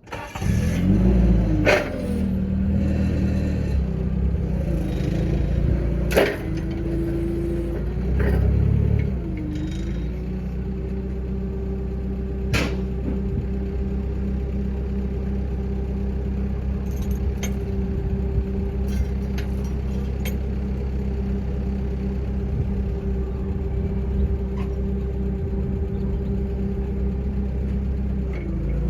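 An engine starts up and runs steadily at idle, with a held whine over its low hum that shifts slightly about nine seconds in. A few sharp metallic knocks sound over it.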